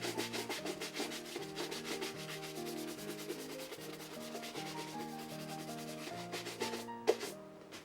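Fast, even rubbing strokes like hand sanding, over background music with a stepping bass line. A sharp knock about seven seconds in, after which both stop.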